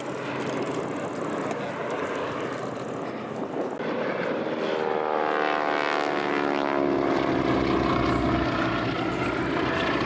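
Propeller aircraft flying past, its engine getting louder from about four seconds in, with the note falling in pitch as it passes.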